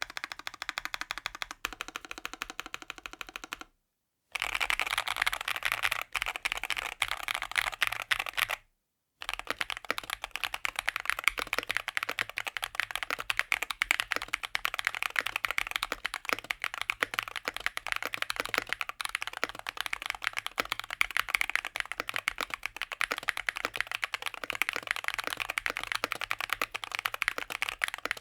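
Fast continuous typing on a Rexus Daxa M61/M64 60% mechanical keyboard, a rapid stream of key clacks. It is broken twice by abrupt cuts to silence, after which the typing resumes with a different tone, as between case and plate setups.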